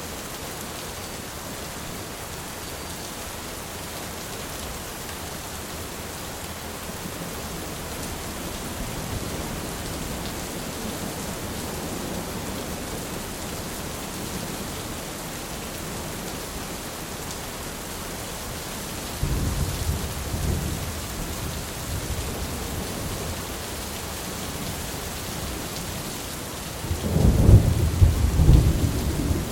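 Thunderstorm: steady heavy rain, with thunder rumbling about two-thirds of the way in and a louder clap of thunder rolling near the end.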